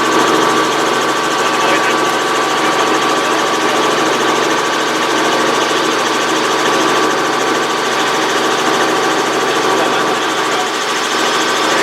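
Helicopter in flight heard from inside: a steady engine and rotor drone with a constant high whine.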